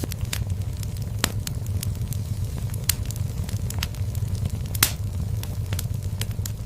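Wood fire burning in a fireplace, a steady low rumble of flame with irregular crackles and sharp pops. The loudest pop comes a little before five seconds in.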